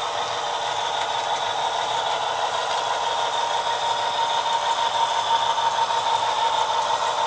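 Simulated Alco diesel engine sound from a Soundtraxx Tsunami sound decoder in an HO-scale model locomotive, played through a tiny 3/4-inch speaker. It runs steadily with a chugging rattle, with thin, bassless tone, and grows slightly louder and more pulsing about five seconds in.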